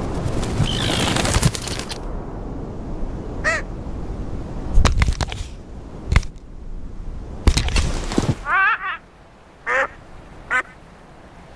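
Bird calls: a few short calls, with a quick run of them about eight seconds in, over a rush of wind early on and several sharp knocks.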